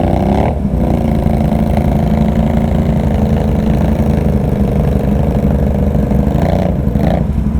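ATV engine running at a steady low speed, with a brief dip in the sound just over half a second in.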